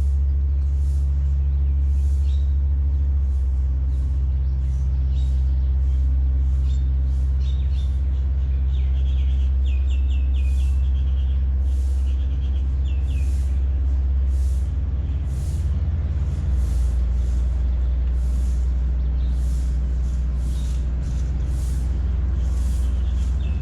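Towing tugboat's engine running steadily with a deep, loud hum, its note shifting slightly about two thirds of the way through. A regular hiss comes about once a second, and birds chirp briefly in the middle.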